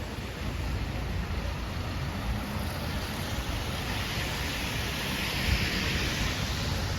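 City road traffic on wet streets: a steady low rumble, with a hiss that swells and fades about four to six seconds in.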